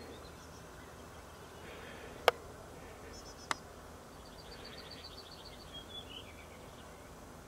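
Faint outdoor quiet with small birds calling: a short high chirp phrase about three seconds in, then a quick run of evenly spaced high notes. Two sharp clicks, about two and three and a half seconds in, the first one the loudest sound.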